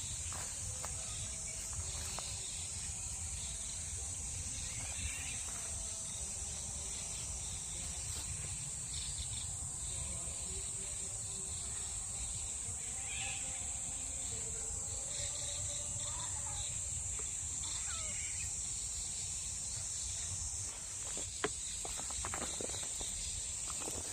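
Woodland insects droning steadily and high-pitched, with scattered bird chirps and calls over a low rumble. One sharp click sounds near the end.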